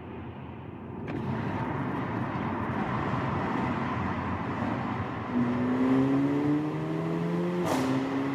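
Mercedes-AMG CLA 45's turbocharged 2.0-litre four-cylinder, with a performance exhaust, accelerating hard through a tunnel under paddle-shifted manual gears. The revs climb steadily from about five seconds in, then an upshift near the end drops the pitch with a sharp crack.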